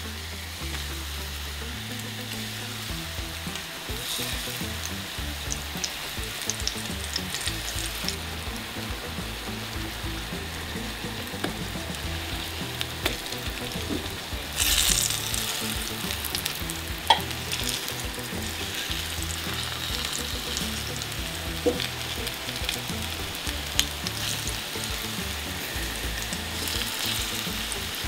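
Battered tempeh pieces frying in hot oil in a skillet: a steady sizzle with crackles that swells louder about halfway through, with a few sharp clicks after.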